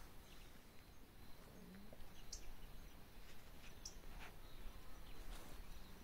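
Faint outdoor ambience with two brief, high bird chirps, about a second and a half apart.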